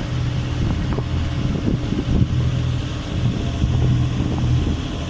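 The gaff cutter's engine running steadily while motoring in calm water, with a few light knocks in the first couple of seconds.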